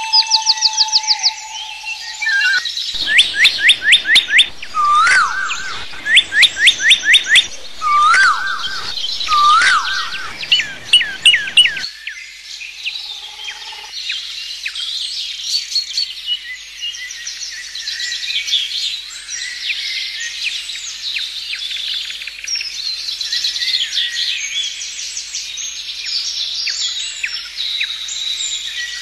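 Birds singing. For the first twelve seconds one bird repeats loud phrases of rapid, falling high notes; after that, many overlapping chirps form a denser chorus.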